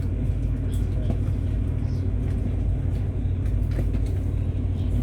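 A ferry's engines running with a steady low rumble, with a few faint knocks over it.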